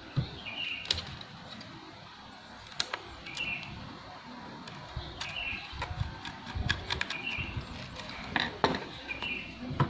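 Scattered light clicks and knocks of hands handling laptop parts. A bird chirps every second or two in the background.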